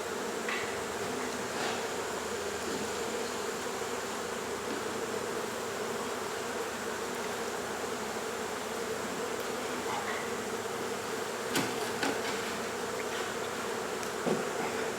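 A mass of honey bees buzzing steadily in a dense hum, the sound of a disturbed colony exposed in a wall cavity. A few sharp knocks sound about two-thirds of the way through.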